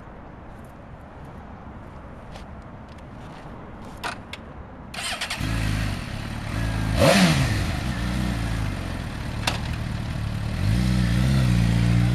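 Stock 2006 Suzuki GSX-R750 inline-four engine: a few light clicks, then it starts about five seconds in. It is blipped once with a quick rise and fall in revs, then idles, with another small rev near the end.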